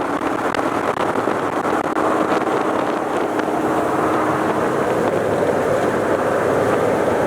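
C5 Corvette's V8 running steadily under way, a dense continuous engine and road noise mixed with wind on the microphone.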